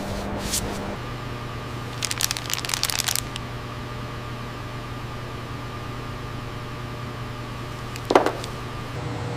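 Steady low machinery hum, with a burst of rapid crackling clicks about two seconds in and a single sharp knock near the end.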